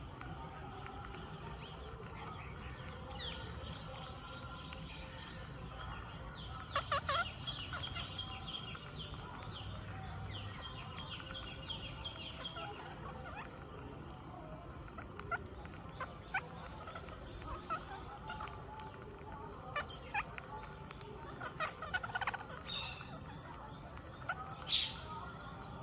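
Rose-ringed (Indian ringneck) parakeets calling: scattered short chattering calls, busiest partway through, with a few louder, sharp screeches near the end.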